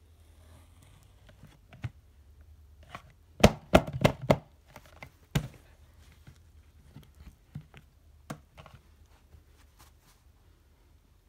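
Knocks and clicks from handling a vacuum cleaner with its motor off: a quick run of about five loud knocks a few seconds in, one more soon after, and lighter clicks scattered around them.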